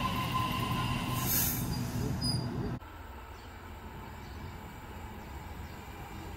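Double-deck electric suburban train running past on the rails, a loud rumble with a steady high whine for about the first second and a half. Just under three seconds in, the sound cuts off abruptly to a much quieter steady rumble.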